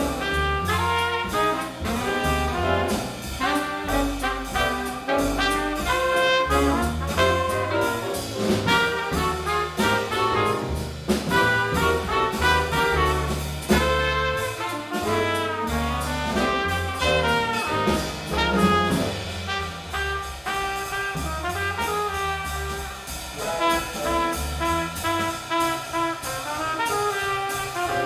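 Small jazz group playing: trumpet and baritone saxophone with piano, bass and drums, the bass line moving in steady steps underneath and cymbals keeping time.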